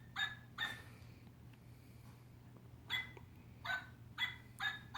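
Small dog yipping: six short high-pitched yips, two close together near the start, then after a pause of about two seconds four more about half a second apart.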